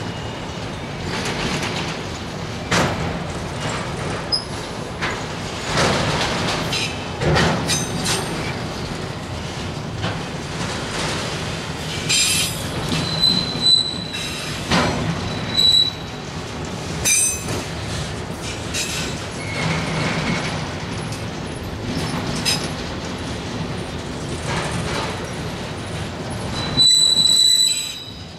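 Autorack freight cars rolling past on steel rails: a steady rumble broken by knocks and clacks of the wheels over the track. Short high-pitched wheel squeals come several times, the loudest near the end.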